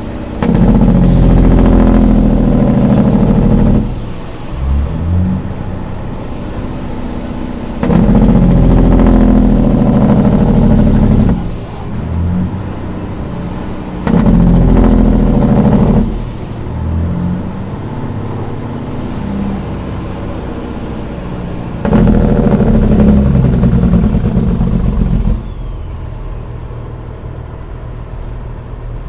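Semi truck's diesel engine pulling hard four times, each pull lasting a few seconds, easing back to a lower steady run in between.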